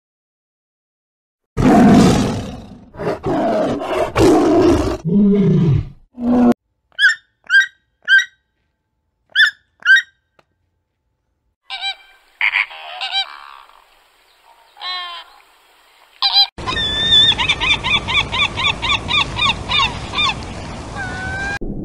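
A series of separate farm animal clips, including geese honking in short repeated calls. Loud low calls open the series, and a fast run of repeated calls over a steady background ends it.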